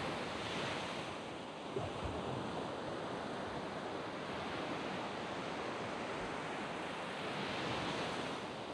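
Sea waves breaking and washing up a sand beach: a steady rush that swells twice, about a second in and again near the end. A brief knock sounds just under two seconds in.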